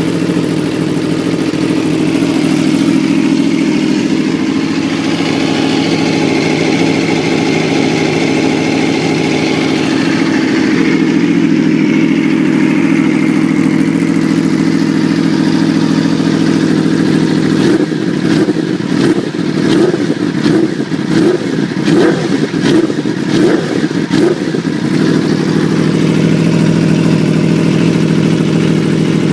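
Aprilia RSV4's V4 engine, breathing through an Austin Racing GP2R full exhaust system, idling steadily. About two thirds of the way in it is blipped in a rapid string of sharp throttle revs for some seven seconds, then settles back to idle.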